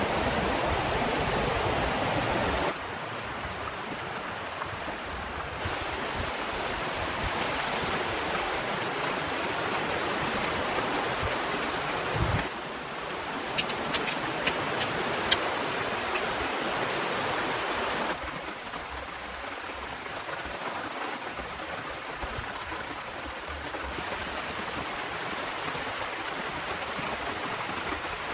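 Heavy rain falling, a steady rushing hiss that jumps up or down in level abruptly several times. A few sharp ticks come about halfway through.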